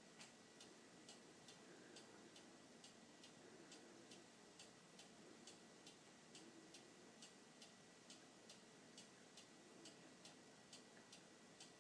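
Faint, steady ticking of a clock, a little over two ticks a second.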